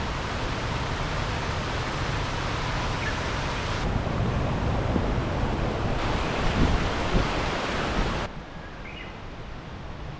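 Waterfall rushing, a steady, loud spray of noise that cuts off abruptly about eight seconds in, leaving a fainter hiss of water.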